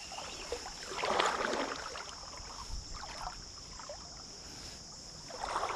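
Creek water sloshing around someone wading, with a brief louder splashy swell about a second in. A steady high insect drone runs behind it.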